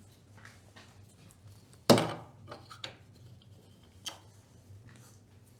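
A single hard knock about two seconds in, followed by a few lighter clicks and taps, over a faint steady low hum.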